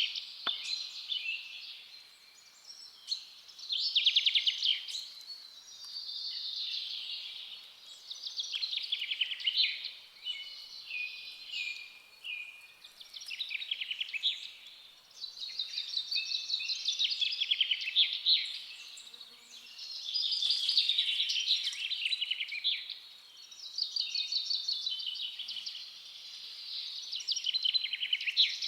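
Forest songbirds singing: high-pitched phrases of rapid trills and chirps, each a second or two long, repeating every few seconds.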